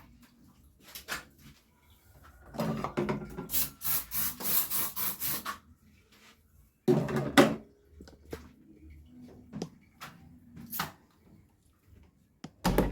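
Household objects being handled while cleaning: rubbing or scrubbing for about three seconds, a loud knock about seven seconds in, and scattered small clicks and taps.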